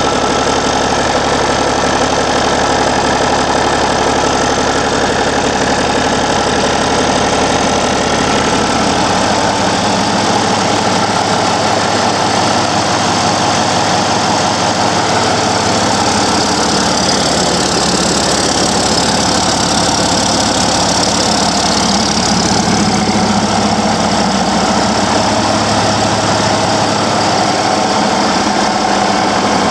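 Cummins ISX15 inline-six diesel truck engine running at a loud, even level, its tone shifting slightly about ten seconds in and again midway.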